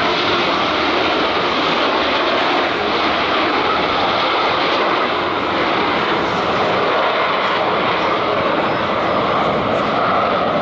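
Loud, steady noise of F/A-18 Super Hornet jet engines in flight, with no clear rise or fall.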